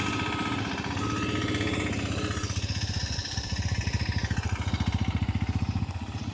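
An engine running with a fast, even chugging.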